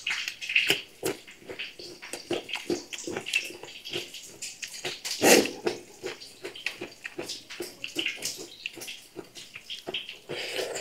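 Raw cucumber slices being bitten and chewed close to a clip-on microphone: a steady run of irregular crisp, wet crunches, with a louder crunch about five seconds in.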